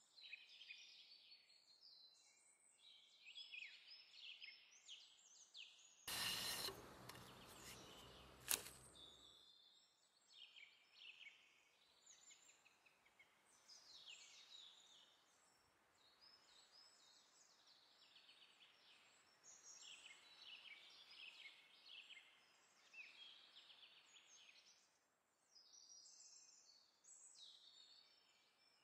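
Faint songbird chirping and twittering throughout. About six seconds in, a short burst of noise lasting about three seconds, with a sharp click near its end that is the loudest sound.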